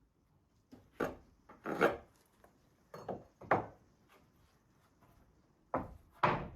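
Wooden beams or boards being handled, giving short wooden knocks and scrapes, about six of them in rough pairs with pauses between.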